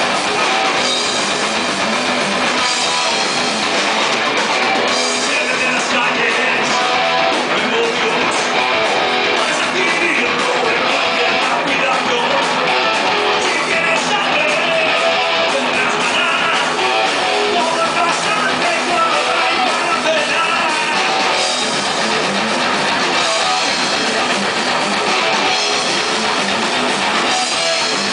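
A live rock band playing at a steady loud level: guitar over a drum kit, a dense heavy rock sound with little deep bass.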